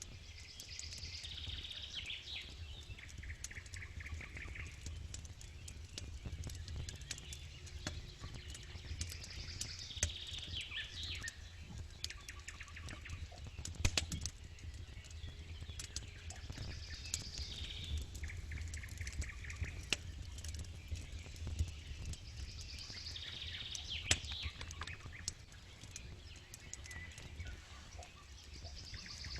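Campfire crackling with scattered sharp pops over a low steady rumble, while a bird repeats a short song phrase, stepping down in pitch and ending in a trill, about every seven or eight seconds.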